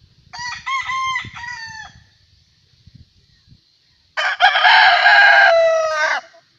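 Gamecocks crowing: two crows, the second, about four seconds in, much louder and harsher than the first.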